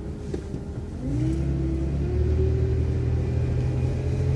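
Transit bus pulling away and accelerating. About a second in, the engine rumble grows louder and a whine rises in pitch, then settles into a steady tone.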